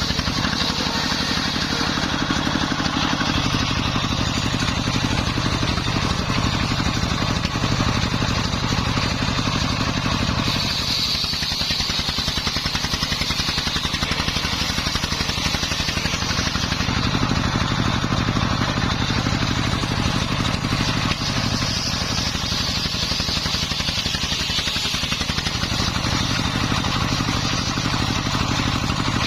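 Dongfeng 24 hp single-cylinder diesel engine running steadily under load, driving a homemade circular saw, with a high whine from the blade that swells for a few seconds around the middle and again later.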